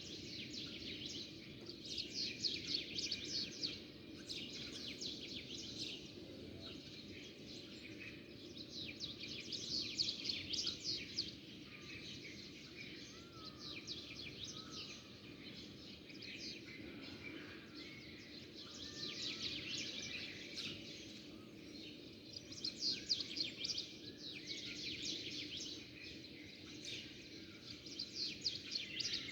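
Small songbirds chirping in bouts of rapid, high chirps that swell and fade every few seconds, over a steady low background noise.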